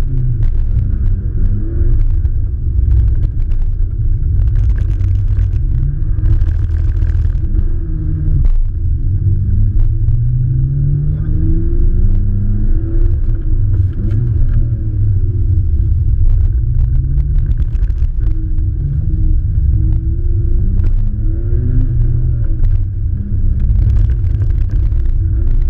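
Car engine revving up and falling back again and again through a run, heard muffled and boomy through a sealed waterproof camera housing, with scattered sharp clicks.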